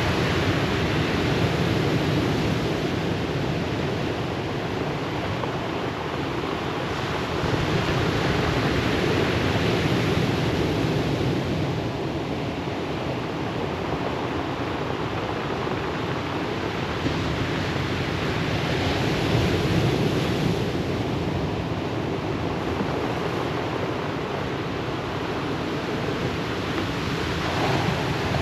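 Ocean surf washing onto the shore in a continuous rushing wash that swells and eases every several seconds.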